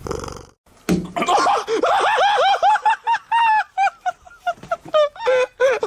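A short burst of noise, then from about a second in a person laughing hard and high-pitched, in a fast run of repeated laugh syllables.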